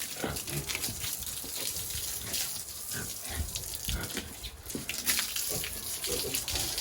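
Pigs grunting in short, separate sounds over a steady hiss of running water.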